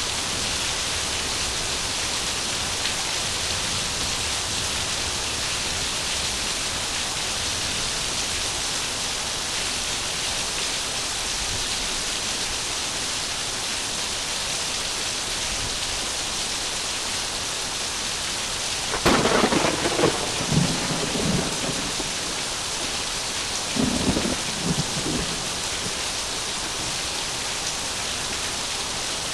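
Heavy, steady rain falling, with a sharp thunderclap about two-thirds of the way in that rumbles on for a few seconds, and a second, shorter roll of thunder soon after.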